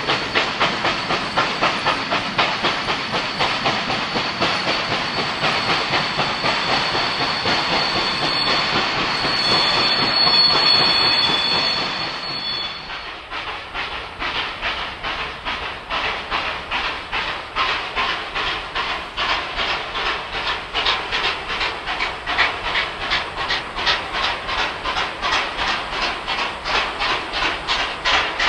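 Two C38-class steam locomotives double-heading a train, working hard with rapid, even exhaust beats over a steady hiss of steam. A steady high tone is held for a few seconds near the middle, and the sound drops a little in level about halfway through.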